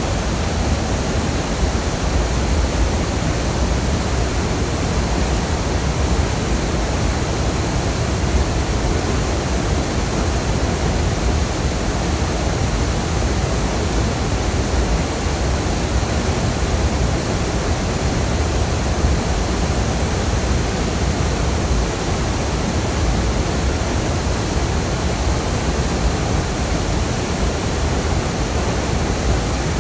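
Waterfall: falling water making a steady, unbroken rushing noise, heaviest in the low range.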